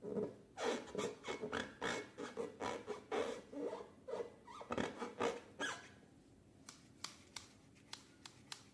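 Slime being worked by hand: about six seconds of irregular wet squishing and crackling, then a few separate sharp clicks near the end.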